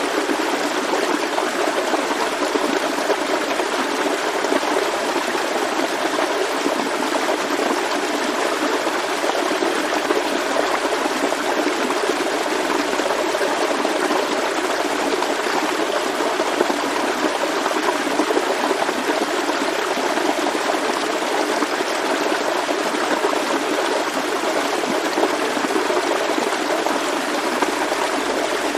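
Forest stream flowing and babbling steadily, an even rush of water with no breaks.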